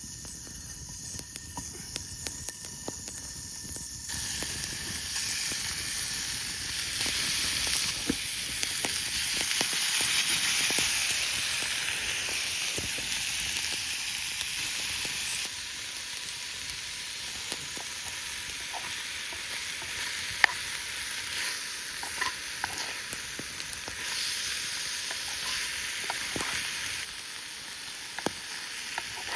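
Marinated pork and onion frying over a campfire, a steady sizzling hiss that swells sharply about four seconds in and eases somewhat midway, with scattered sharp clicks.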